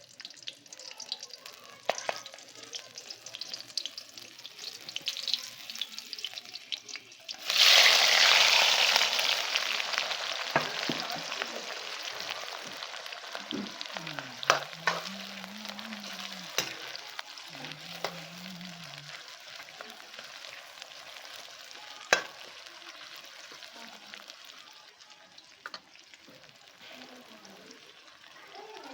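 Food frying in hot oil: light crackling, then a sudden loud sizzle about seven seconds in as food goes into the pan, slowly settling over the following seconds. A few sharp knocks sound against the pan partway through.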